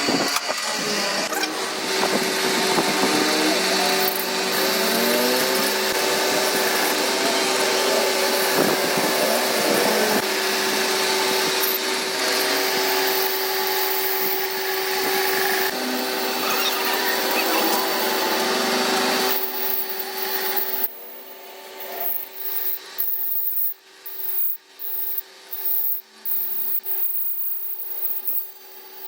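Power tool running steadily under load, a constant motor tone over rough noise, for about twenty seconds; after that it starts and stops in short bursts.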